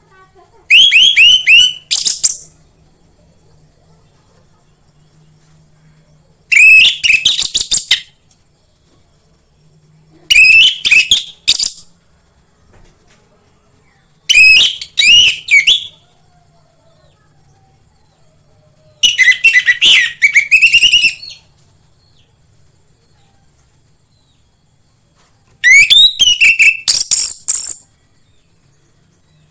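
Orange-headed thrush song used as a lure recording for caged birds: six short, loud phrases of rapid sweeping whistled notes, a few seconds apart, with a faint steady hiss between them.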